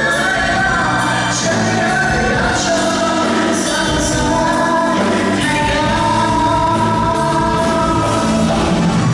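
A singer performing a pop song with a live band, heard through the hall's sound system.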